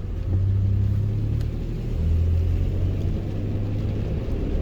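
Car engine and road noise heard from inside the cabin while driving: a steady low drone whose pitch shifts slightly about two seconds in.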